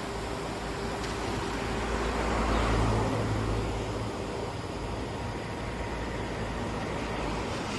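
A motor vehicle passes by, its engine and road noise swelling and fading about two to three seconds in, over a steady rushing background.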